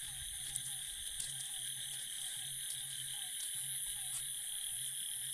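Outdoor chorus of calling insects and frogs: a steady high-pitched drone, short chirps repeating a few times a second, and a low pulsing croak underneath.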